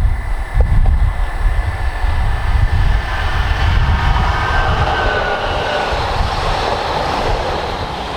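Rhaetian Railway train running past, with a deep rumble throughout and a rushing rail noise that builds from about three seconds in.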